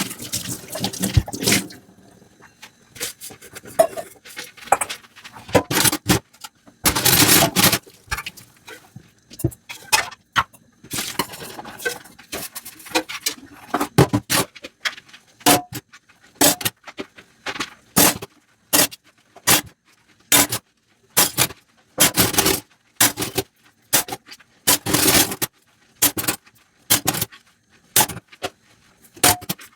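Dishes being scrubbed with a soft sponge: separate short scrubbing strokes, a few longer ones, settling into a steady rhythm of about one to two strokes a second. Running water stops about a second and a half in.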